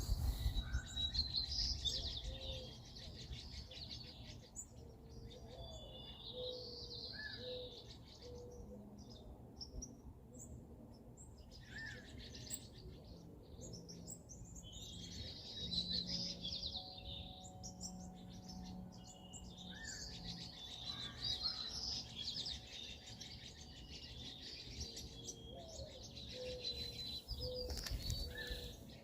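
Small songbirds chirping and twittering in repeated bursts, with a few short falling notes, over a low rumble that swells at the start and near the end.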